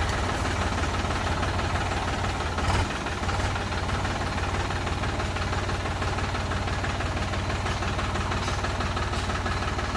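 Tractor engine running steadily at low revs, with a brief louder surge about three seconds in.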